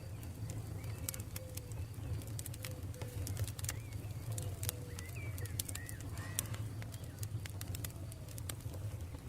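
Campfire crackling, with sharp pops scattered throughout over a low, steady rumble of the flames. A bird repeats short, low calls about twice a second, with a few higher chirps around the middle.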